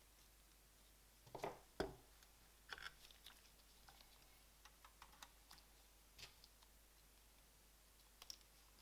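Faint, scattered light clicks and taps of small parts being handled, with a louder couple of knocks about a second and a half in.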